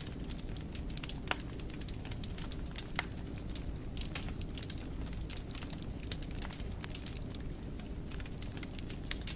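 Wood fire crackling in a fireplace: a dense, irregular run of small pops and snaps over a low, steady rumble of flames, with a couple of sharper pops about a second and three seconds in.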